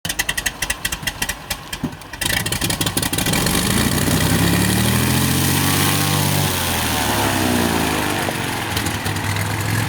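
A small propeller plane's engine drones loudly, its pitch swelling and then falling away in a smooth arc around the middle. A rapid crackling fills the first two seconds.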